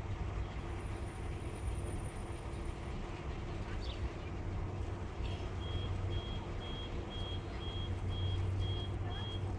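Car driving, with steady engine and road noise. A little over halfway through, a high electronic beep starts, repeating about two and a half times a second.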